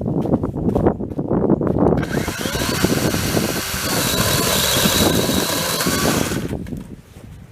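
Chainsaw engine: a couple of seconds of rattling and knocking, then the engine starts and runs at high speed with a rising whine, before dying away about six and a half seconds in. This is the saw's first run.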